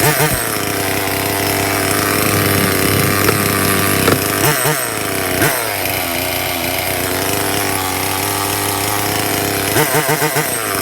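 Stihl MS 170 chainsaw's small two-stroke engine running steadily, revved up briefly a few times: near the start, around the middle and in a quick series near the end. The saw is running on a replacement carburetor after a no-start.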